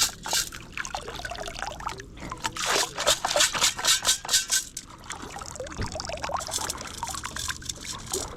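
Water pouring and splashing out of a metal-detecting sand scoop as it is lifted and shaken in shallow lake water, with a dense run of splashes in the middle.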